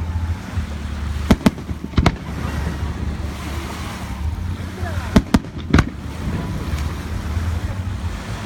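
Fireworks going off: six sharp bangs, a close pair about a second in, another at two seconds, and three between five and six seconds, over a steady low rumble.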